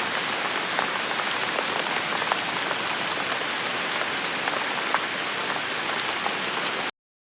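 Steady rain falling on a surface, an even hiss with scattered small drop ticks, which cuts off abruptly near the end.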